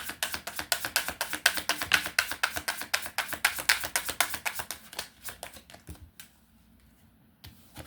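Tarot cards being shuffled by hand: a fast run of card flicks that stops about six seconds in, followed by one or two soft card sounds near the end.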